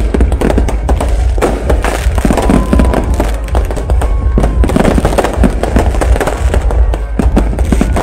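Aerial fireworks display: a dense, continuous run of shell bursts, bangs and crackles, several a second.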